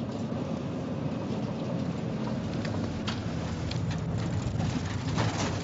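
Steady rumble of a vehicle's engine and road noise, with a few faint clicks.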